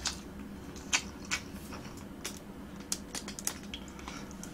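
Quiet closed-mouth chewing: a scatter of soft, sharp mouth clicks and smacks, about seven over four seconds, over a low room hum.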